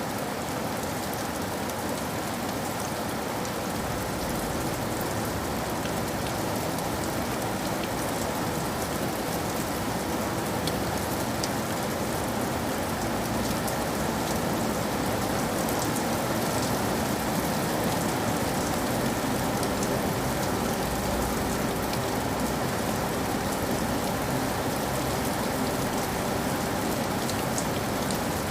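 Steady rainfall, an even hiss of rain on surfaces with fine scattered drop ticks.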